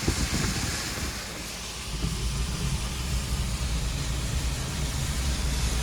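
Car on the move in the rain, heard from inside the cabin: a steady hiss with a low engine and road rumble that grows stronger about two seconds in.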